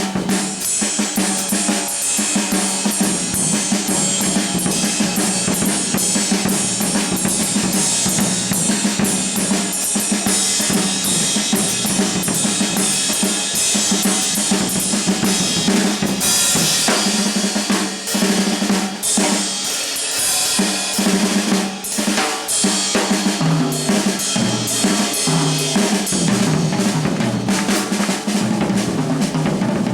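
Live jazz drum kit played busily and without a break: snare, bass drum and cymbals. Underneath runs a steady low held note, and in the later part a low line that moves in pitch.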